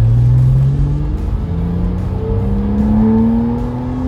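2008 Porsche Boxster RS 60 Spyder's 3.4-litre flat-six accelerating on the road: the revs rise, drop at a gear change about a second in, then climb steadily again.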